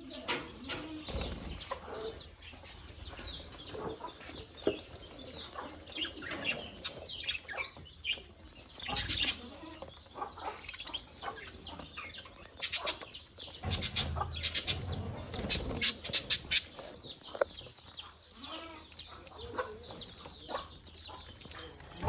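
Pet budgerigars chattering and chirping continuously in their cage, with a few louder bursts of sharp calls about nine seconds in and again over several seconds past the middle.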